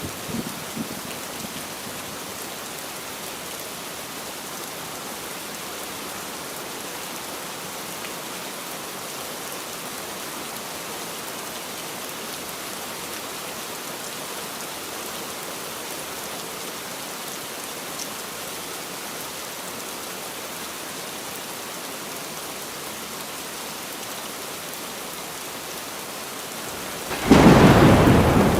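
Steady heavy rainfall, an even hiss of falling rain. Near the end a sudden loud thunderclap breaks in, heavy in the low end.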